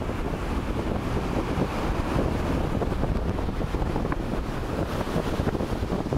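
Strong wind buffeting the microphone, a steady low rumble, with ocean surf behind it.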